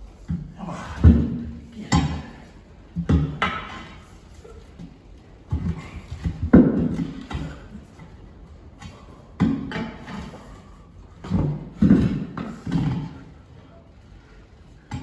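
A string of irregular heavy thumps and knocks, roughly one a second, each dying away quickly.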